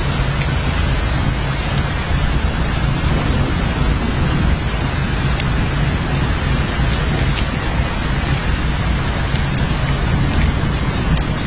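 Steady heavy rainfall with a constant low rumble underneath and scattered sharp ticks of individual drops striking.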